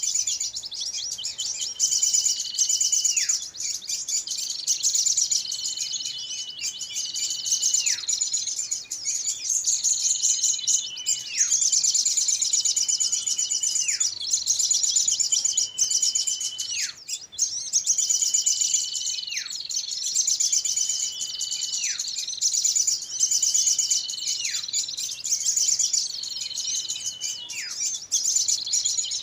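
A bird-lure recording of many small birds calling at once: a dense, fast, high chatter with a held whistle that drops sharply in pitch, repeating about every two seconds in an even loop.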